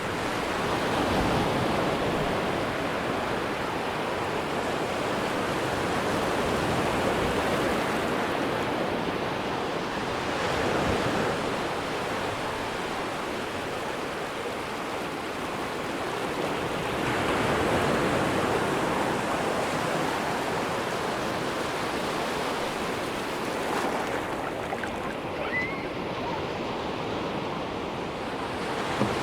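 Ocean surf washing onto a sandy beach: a steady rush that swells louder each time a wave breaks, several times over.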